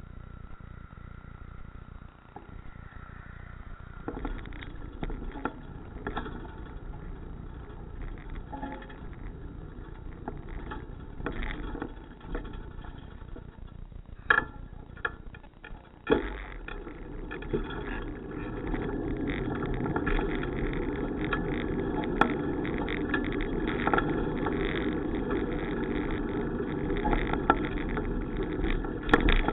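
Riding noise from a bicycle in motion: a steady rumble with scattered rattles and clicks, getting louder about halfway through.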